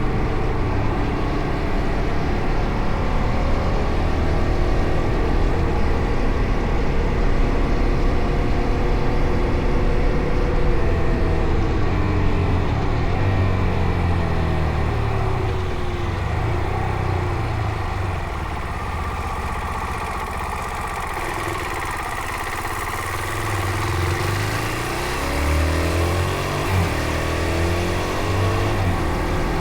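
Fantic Caballero Rally 500's single-cylinder engine under way, its pitch rising and falling as the rider works through the revs. A little past the middle it drops lower and quieter as the throttle eases off, then climbs again near the end.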